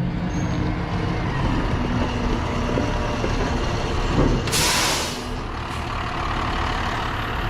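Heavy diesel engine running steadily. A little past halfway a truck's air brakes let off a short, loud hiss of air.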